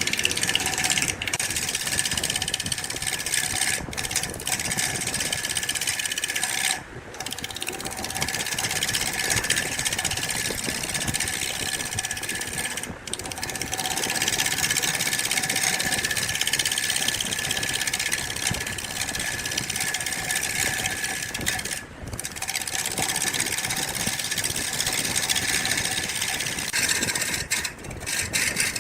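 An electric woodworking power tool motor running steadily, with a few brief dips in the sound.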